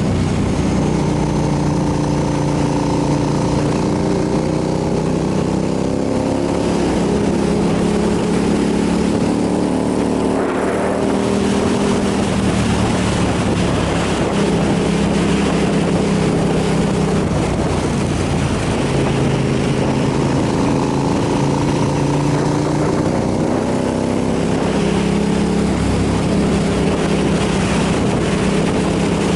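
Motorcycle engine running under way, its pitch rising and falling several times as the revs change, over a steady rush of wind on the microphone.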